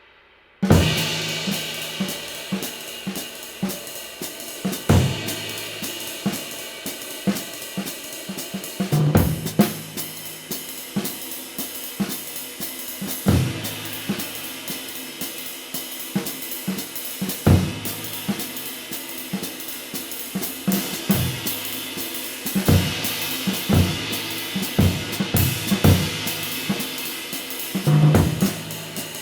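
Drum kit groove played on a 24-inch handmade bronze ride cymbal, with kick drum, snare and hi-hat under the ride's shimmering wash. It starts with a loud hit about half a second in, with heavier accents roughly every four seconds.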